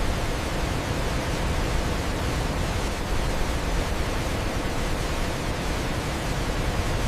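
Waterfall: a steady, full rush of falling water with a deep low rumble and no breaks.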